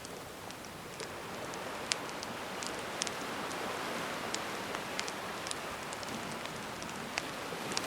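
Gentle sea waves washing in a steady hiss that swells slowly, with a wood campfire crackling and giving off sharp pops several times.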